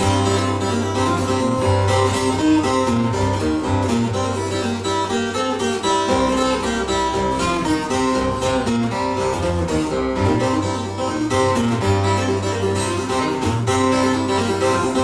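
Solo acoustic guitar played live with no singing: a busy run of picked notes over repeated low bass notes.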